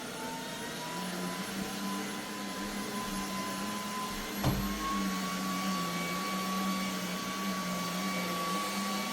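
Eureka React Sense cordless stick vacuum running on a rug in auto mode, a steady motor whine that climbs slightly in pitch in the first second as it spins up. About halfway through there is a single low knock, after which the whine steps up a little higher.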